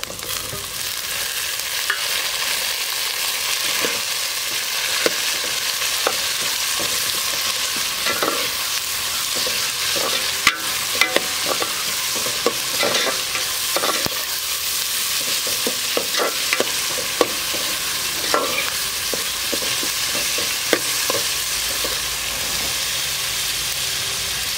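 Chopped tomatoes frying in hot oil with shallots and green chillies in a metal pot: a steady sizzle that swells as the tomatoes go in, with the metal ladle scraping and knocking against the pot now and then as it stirs.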